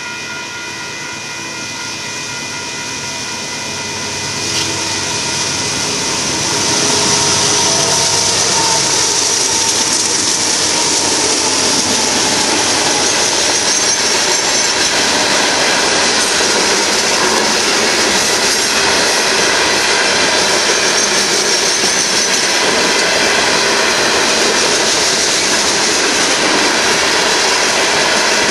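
Union Pacific freight train of loaded gravel hopper cars rolling past close by, a steady rumble and rush of steel wheels on rail. A few steady tones in the first seconds fade as the noise builds over about seven seconds, after which it holds steady.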